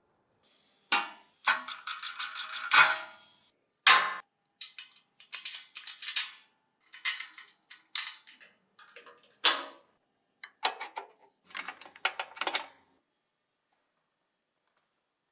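Irregular workshop handling noises: sharp clicks and knocks with a denser scraping rattle near the start, stopping about two seconds before the end.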